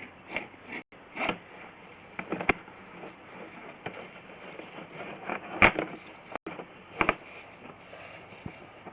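Sewer inspection camera's push cable being fed down the line: irregular sharp knocks and clicks over a faint steady hiss, the loudest a little past halfway.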